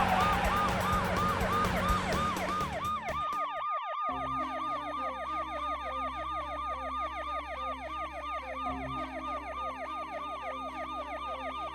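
Police car sirens in a fast repeating yelp, each cycle a quick sweep up and down. A second siren joins about three seconds in, overlapping the first, over a low steady hum.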